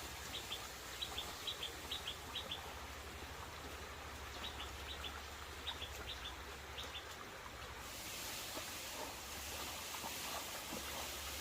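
A small bird calling in two quick runs of short, high, falling chirps over a steady background hiss. About eight seconds in, a broader rushing hiss grows louder.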